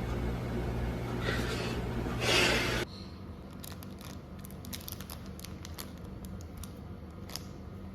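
Packaging being handled and opened: a short, loud tearing or rustling sound about two seconds in, then faint light clicks and taps.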